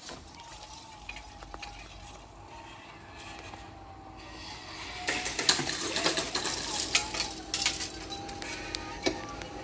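A train passing on the rails, with a thin wavering squeal from the wheels. About halfway through it grows louder, with irregular metallic clanks and clicks from the wheels and track.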